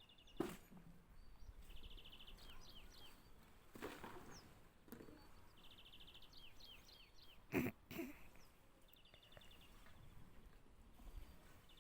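A small songbird singing faintly, repeating one short song about every four seconds: a fast even trill followed by a few quick sliding notes. A few soft knocks come in between, the loudest about eight seconds in.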